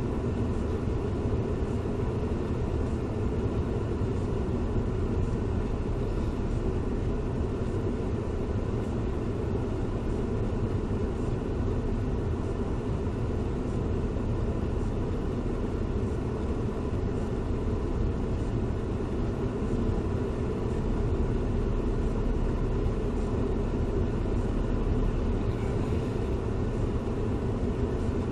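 Steady low rumble of a car driving on a wet road: tyre and road noise with the engine beneath it, picked up by a dash cam inside the car, with a faint steady high tone over it.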